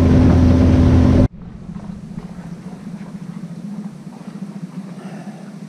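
Small boat's motor running under way, loud with the rush of wind and water. About a second in it drops suddenly to a much quieter, steady low engine hum.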